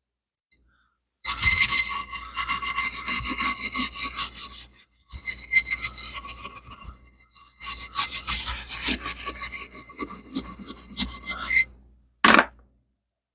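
Brisk, rapid rubbing and scrubbing on a metal part to strip off oil with a cleaner, the metal ringing with steady tones under the strokes. The scrubbing pauses briefly twice, and a short sharp knock or clink comes near the end.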